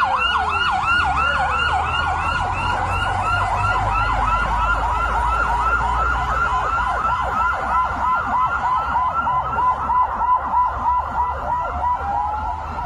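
Emergency vehicle siren in fast yelp mode, its pitch sweeping up and down about four to five times a second, with a low rumble underneath. Near the end the yelp gives way to a single slower rising sweep.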